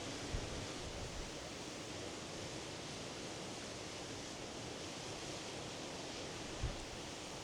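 Norwegian Sea surf washing on the shore as a steady, even hiss. A few brief low thumps cut in, twice in the first second or so and once near the end.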